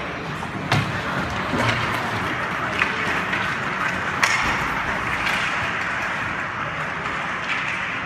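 Hockey play heard from the stands: steady rink noise with a few sharp clacks of stick on puck or boards, the loudest about four seconds in.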